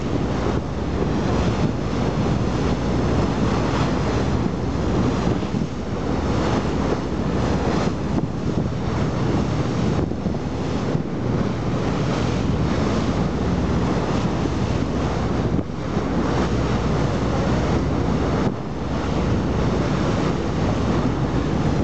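Wind buffeting the microphone over the sea, a steady rushing noise that dips briefly now and then.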